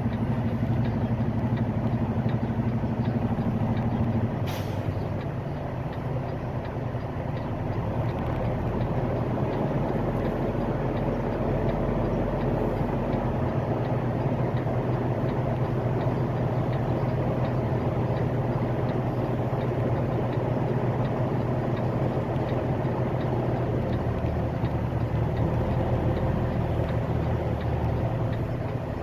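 Semi-truck's diesel engine running steadily, heard from inside the cab, with a short hiss about four and a half seconds in.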